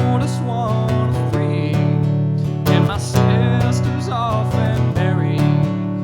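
Acoustic guitar strummed in a steady rhythm, chords ringing on, heard straight from the mixing board.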